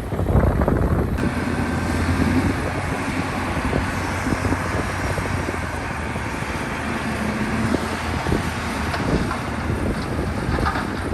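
Heavy diesel engine running steadily under load, with wind buffeting the microphone.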